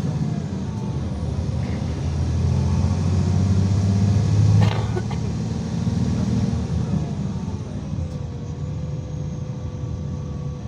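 IVECO Crossway 13M PRO city bus under way, heard from inside: its engine drones steadily, with a short knock about halfway through, after which the engine note drops and quietens.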